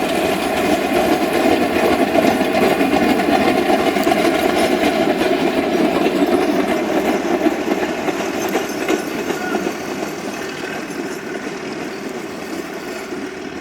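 Metre gauge train running on the rails, a steady rumble and clatter of wheels that grows quieter over the last few seconds as it moves away.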